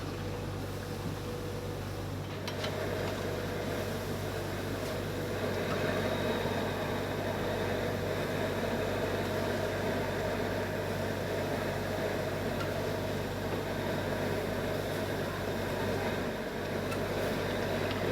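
Steady hum and whir of factory machinery, growing louder about two and a half seconds in.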